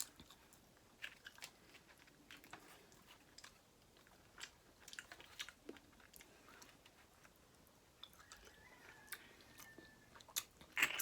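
Faint chewing and biting of a person eating seafood, with scattered small clicks, crunches and wet mouth sounds, and a slightly louder burst near the end.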